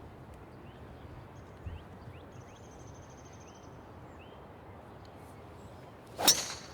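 A golf club striking the ball on a tee shot: one sharp crack about six seconds in, after a few seconds of quiet outdoor background with faint chirps.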